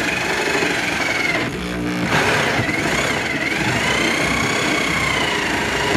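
Heavy-duty electric drill turning a hole saw through the wall of a plastic cooler. The motor's whine sags and recovers as the saw bites, easing briefly about a second and a half in.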